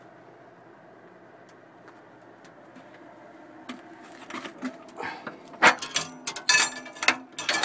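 A wood gasification furnace runs with a steady low hum. From about four seconds in come a series of loud metallic clanks and rattles, like the furnace's door latch being worked.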